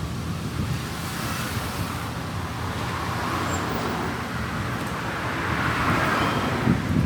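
Street traffic: a steady rumble of passing road vehicles, with one vehicle growing louder as it passes near the end.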